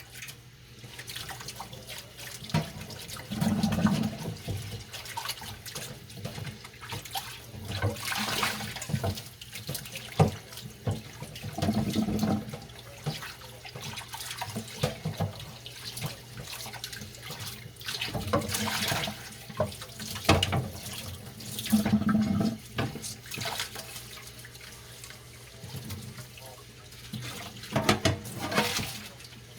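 Washing dishes by hand at a kitchen sink: tap water splashes over dishes in bursts every few seconds, with occasional sharp clinks of dishes against each other or the sink.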